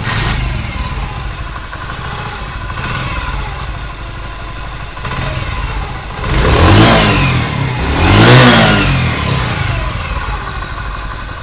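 Honda CG125's single-cylinder four-stroke engine running, blipped twice about six and eight seconds in, each rev rising and falling. Its timing chain has just been tensioned with a harder tensioner spring, the cure for a loud engine noise.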